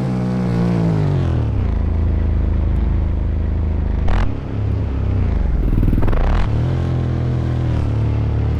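Dirt bike engine dropping off from high revs over the first second or so, running low, then revving up again about six seconds in.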